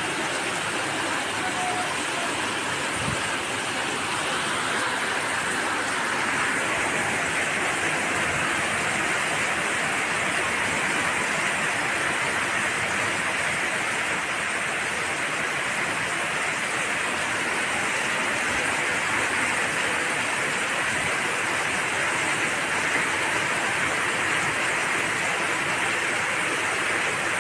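Steady, unbroken rushing of water, even in level throughout.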